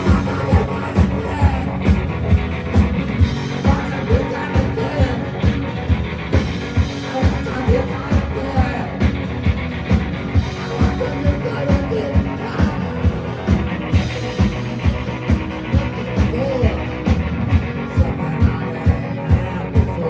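Live rock band playing: electric guitar over a steady drum beat, with strong drum hits about twice a second.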